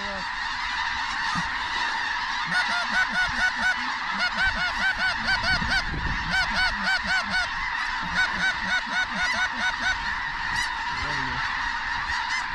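Large flock of snow geese calling, a dense chorus of high honks. A run of louder, evenly spaced calls stands out from about two and a half to ten seconds in.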